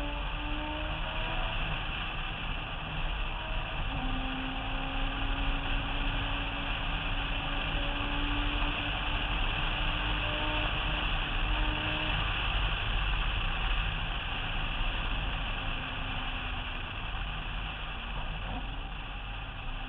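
Mazda RX-7's rotary engine pulling along, its note climbing slowly in pitch with a break about a second and a half in, mostly buried under a steady rush of wind on the roof-mounted camera.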